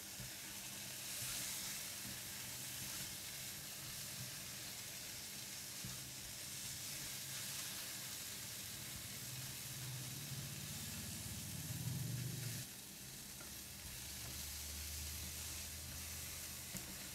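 Seafood tofu cubes and sliced red chilli frying in garlic oil in a non-stick wok, stirred with a silicone spatula: a steady, low sizzle.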